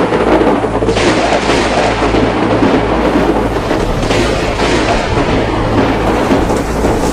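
Violent thunderstorm with strong wind and heavy rain: a steady, loud rushing noise with a deep rumble underneath.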